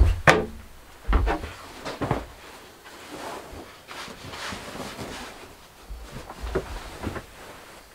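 Irregular knocks and clatters of objects being handled, the loudest near the start, with low rumbling thumps between them.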